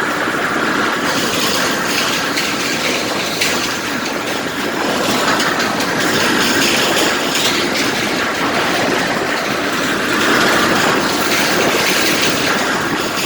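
Steel deck of a pontoon bridge rattling and clanking steadily under a vehicle crossing it.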